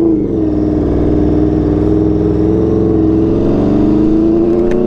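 Aprilia RSV4 V4 engine through an SC-Project CRT exhaust, running steadily under way. Its pitch dips just after the start, holds level, then slowly rises near the end.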